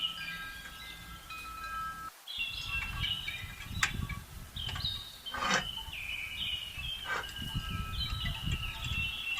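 Chime-like ringing tones in short stepped notes, several at once, over a low crackling noise, with a falling whistle-like sweep about halfway through.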